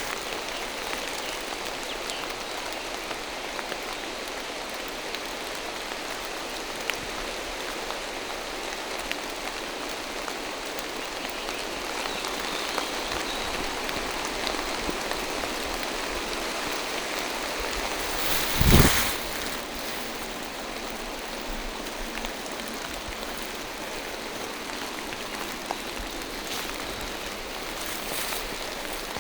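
Steady rain falling through a forest, with a few single drops ticking close by. There is one loud thump about two-thirds of the way through.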